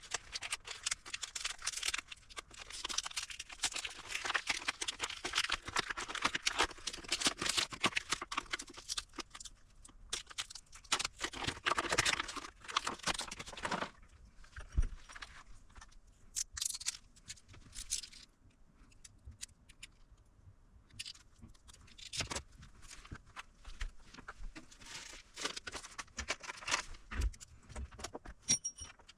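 Hands working on an opened portable power station: a long stretch of scraping, tearing and crackling handling noise, then scattered light clicks and taps from about halfway through.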